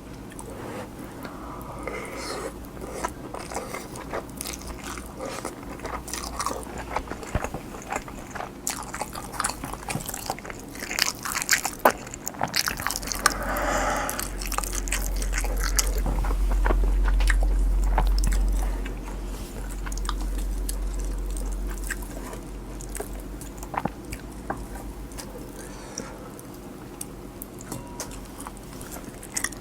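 Close-miked chewing of cheese-and-egg kimchi fried rice: wet mouth clicks, smacking and soft crunches. A low rumble rises for several seconds in the middle.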